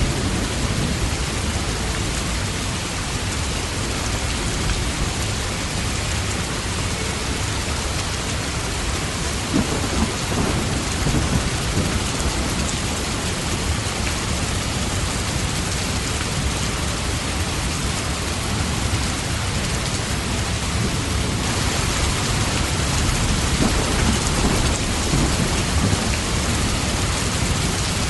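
Steady heavy rain hissing, with low rumbling thunder under it. The rain's hiss turns brighter about two-thirds of the way in.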